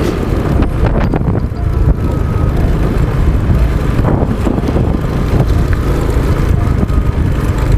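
Honda XRM 125 motorcycle's single-cylinder four-stroke engine running steadily while being ridden, heard as a continuous low rumble.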